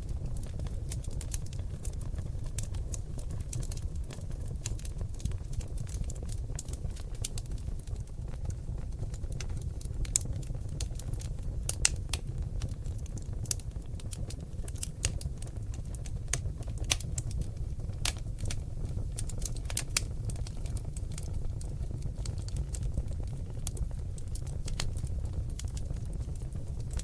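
Oak log fire in a fireplace crackling: frequent irregular sharp snaps and pops over a steady low rumble, with a few louder pops in the middle.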